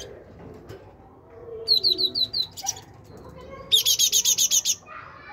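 Great tit singing: a run of five quick, high repeated notes about two seconds in, a short buzzy note, then a faster, louder run of about ten high notes near the end.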